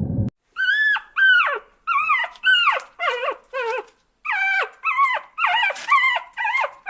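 A dog whimpering in a quick series of about a dozen short, high calls, each sliding down in pitch.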